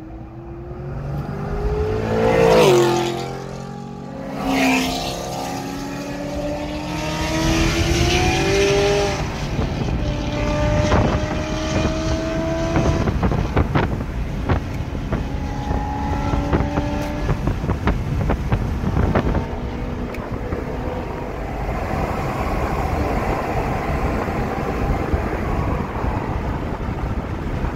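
A C7 Corvette's V8 passing loudly about three seconds in, then a car engine accelerating hard, its pitch climbing and dropping back at each of several gear changes, and finally settling into steady highway cruising with road and wind noise, heard from inside a car.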